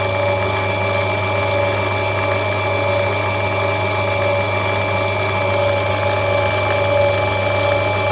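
Electric motor of a lapidary opal-grinding machine running steadily, a constant low hum with a thin high whine, the wheel spinning without a stone being ground against it.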